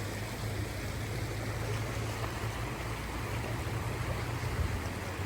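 Steady rush of a flowing river, with a low steady hum underneath.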